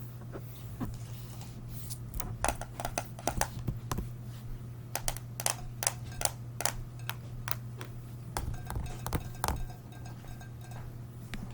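Irregular sharp clicks and taps, many in quick succession, of small objects being handled, over a steady low hum.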